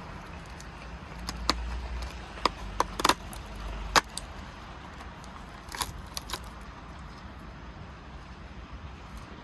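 Small hard plastic pieces clicking and rattling as they are handled: a run of sharp clicks in the first four seconds and a few more a couple of seconds later.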